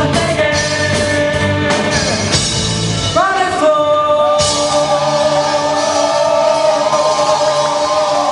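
Amateur rock band playing live with a singer; about three seconds in the drums drop out and the singer holds one long note over sustained chords, the closing note of the song.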